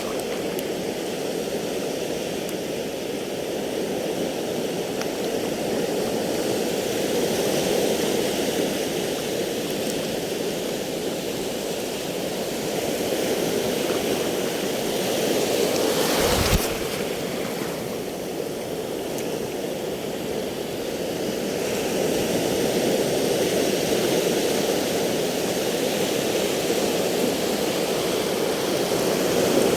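Steady rushing water noise that gently swells and eases, with a single knock about sixteen seconds in.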